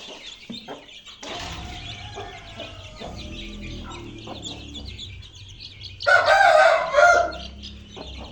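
Desi chicks cheeping continuously with chickens clucking. Near the end a rooster crows loudly for about a second.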